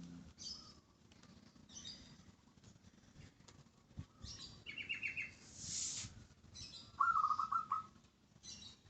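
Songbirds chirping and giving short, rapid trills, several separate calls at different pitches, with the loudest trill about seven seconds in. A single knock about four seconds in.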